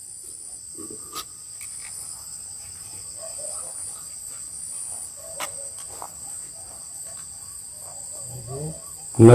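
Night insects, crickets, chirping in a steady high-pitched chorus, with a few faint clicks. A person's voice cuts in briefly and loudly near the end.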